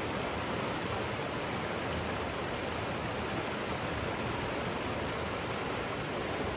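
The River Teign flowing past, a steady rushing of water.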